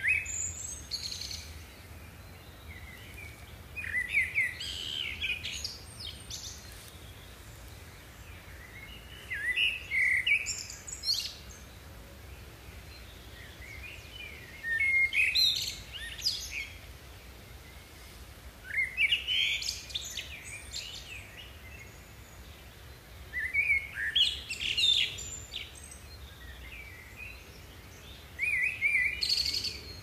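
Songbird chirping in short bursts of quick, high chirps and whistles, one burst about every four to five seconds, over a steady low background hum.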